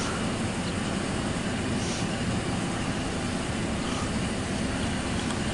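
Steady low rumble of an approaching CSX intermodal freight train's diesel locomotives in the distance.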